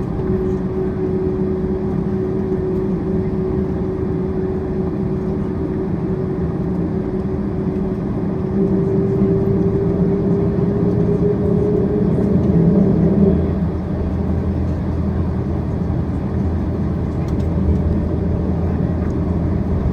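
Cabin noise of a Boeing 767-400ER taxiing: the engines run at idle with a low rumble and a steady whine. The whine rises a little in pitch and loudness, then drops away about thirteen seconds in, leaving the lower rumble.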